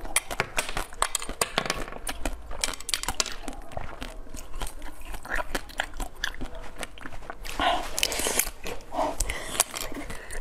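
Close-miked chewing of a mouthful of jelly coated in a cracked blue shell, with many irregular small crunches and crackles as the shell breaks up and wet sounds of the soft jelly.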